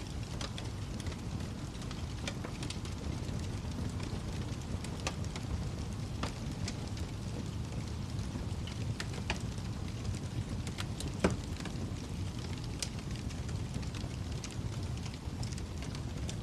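Wood fire crackling in a fireplace: a steady low rush of flames with scattered sharp pops, the loudest about eleven seconds in.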